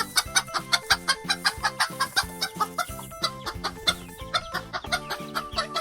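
Hen clucking, a rapid run of short clucks several a second, over light background music.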